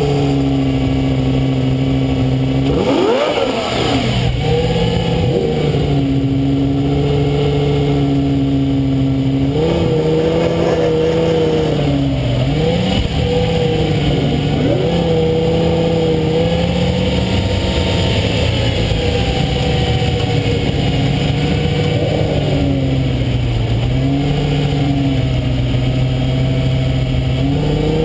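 Lamborghini Gallardo Superleggera's V10 exhaust heard close up, cruising with a steady drone. The revs flare up and drop quickly about three seconds in, and the pitch steps up and down a few times as the car changes speed.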